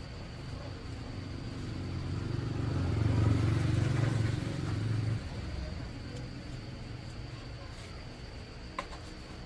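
A motor vehicle engine running, growing louder over a couple of seconds and then falling away about five seconds in, with a single short click near the end.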